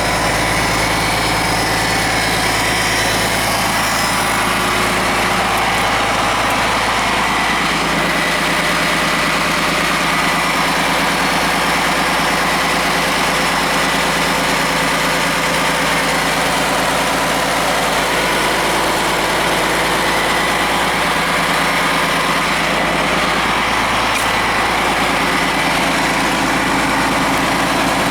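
Cummins ISM turbo-diesel engine of a Blue Bird LTC-40 coach idling steadily.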